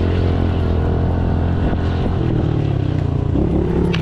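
Pit bike's small single-cylinder engine running steadily while riding, its pitch shifting slightly about three seconds in, with wind rushing over the helmet-mounted microphone.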